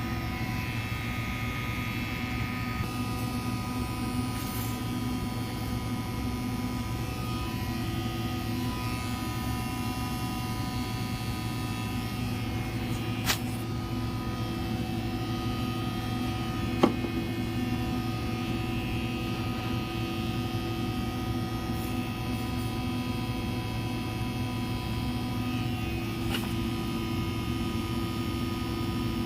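Steady electrical hum of running laboratory equipment, several steady tones held over a low drone, with two sharp clicks about halfway through, a few seconds apart.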